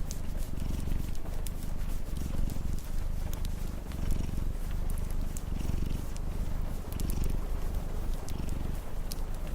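A cat purring in slow cycles, swelling and fading about once a second, over the sharp pops and crackles of a wood fire and a steady hiss of rain.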